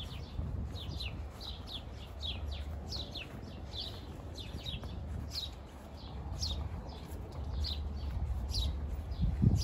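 Small songbirds chirping: a steady run of short, falling chirps, about two a second, over a low rumble. A single thump near the end is the loudest sound.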